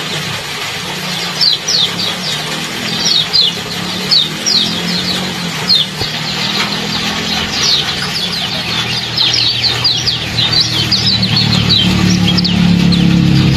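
Small songbirds chirping rapidly in quick runs of short, high, downward-sweeping notes that grow busier after the middle, over a steady hiss of trickling water. A low hum rises near the end.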